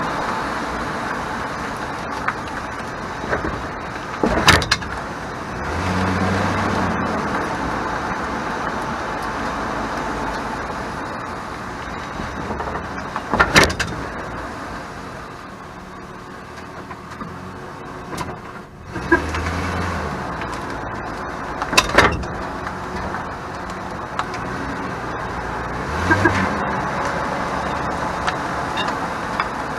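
2001 Chevrolet Silverado 1500 pickup driving, with steady road noise and three sharp rattling clatters from the rear as it goes over bumps. The owner traced the rattle to the parking brake (e-brake).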